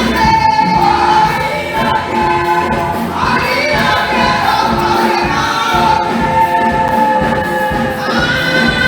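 Choir singing a carol with instrumental backing and a steady beat.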